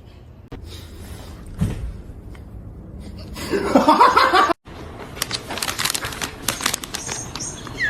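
A person laughing for about a second, roughly three and a half seconds in; after a sudden cut, a run of light clicks and knocks.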